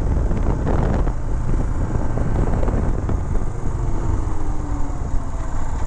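Royal Enfield Himalayan's single-cylinder engine running on the move, under heavy wind rumble on the microphone.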